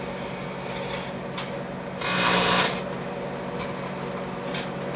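Microwave oven running with a steady hum while the metal junk inside arcs and burns, giving rasping crackles; a louder burst of crackling comes about two seconds in and lasts under a second.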